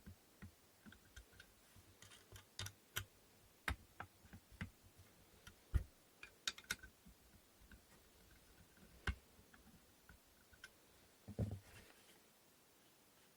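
Faint, irregular clicks and light knocks of wooden inkle loom parts being handled and fitted together, with a duller thump about eleven seconds in.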